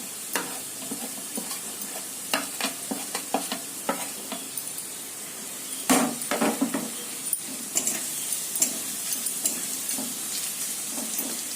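Onions and whole spices sizzling in hot oil in a kadai while red chilli powder is stirred in. A spatula scrapes and taps against the pan, with a louder clatter of strokes about six seconds in.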